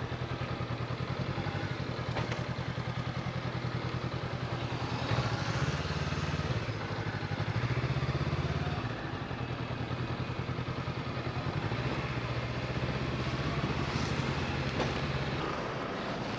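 Honda CB500X parallel-twin motorcycle engine running under way, with the sound of the ride around it. The engine note rises about five seconds in and falls back about nine seconds in.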